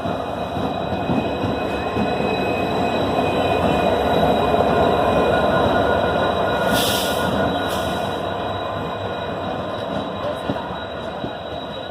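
Passenger train rolling slowly past into the station, its coaches' wheels running on the rails with a thin steady squeal, growing louder to a peak about halfway through and then easing. Two short hisses, about seven seconds in.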